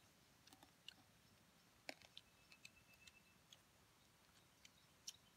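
Faint, scattered clicks and crackles of eating: chewing and picking meat off small roasted bones by hand, with one sharper click about two seconds in.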